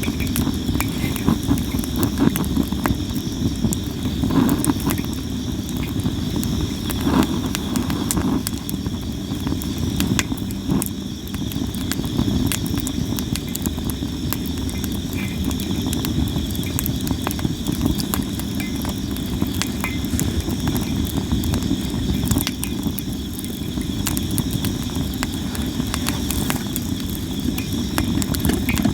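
Sawara (Japanese cypress) firewood burning, crackling and popping with sharp cracks throughout over a low steady rumble of the flames. Insects trill steadily in the background.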